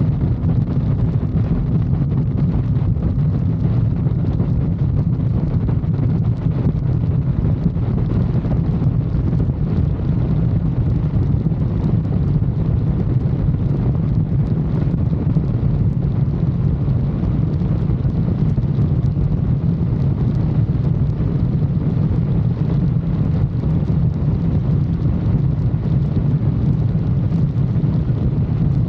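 Motorcycle engine running at a steady cruise, a low, even drone that holds its pitch, mixed with wind rushing over the microphone.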